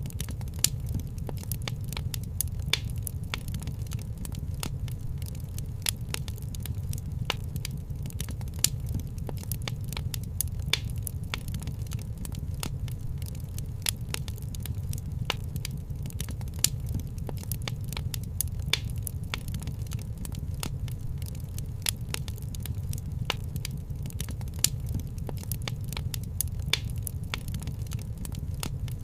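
Fireplace fire crackling: irregular sharp snaps and occasional louder pops over a steady low rumble.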